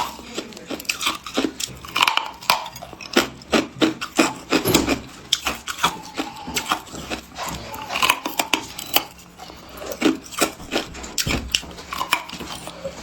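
Hard clear ice being bitten and chewed: irregular sharp crunches and cracks in quick, uneven clusters.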